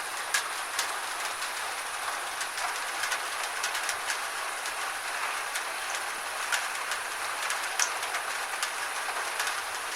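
Gentle rain falling: a steady hiss, with many sharp taps of single drops scattered irregularly through it.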